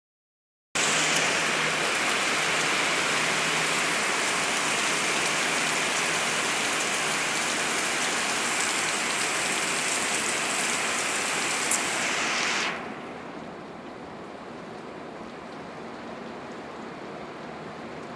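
Steady rain falling. It starts abruptly about a second in, and about thirteen seconds in it drops suddenly to a quieter, duller rain.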